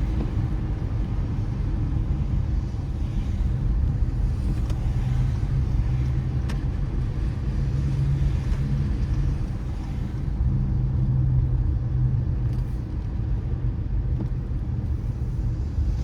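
A car driving on a wet road: a steady low rumble of engine and tyres, with a couple of faint clicks in the middle.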